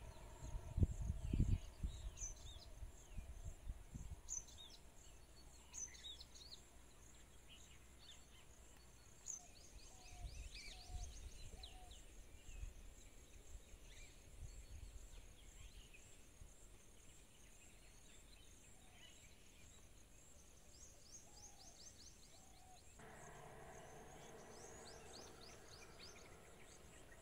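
Small birds chirping and twittering throughout. A low rumble comes in bursts in the first couple of seconds and again about ten to fifteen seconds in, and a steady low hum sets in near the end.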